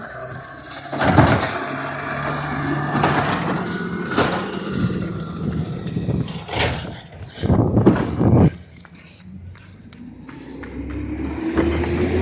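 Amrep garbage truck running, with a series of clanks and bangs that are loudest about seven to eight and a half seconds in. Near the end the engine note rises as it revs up.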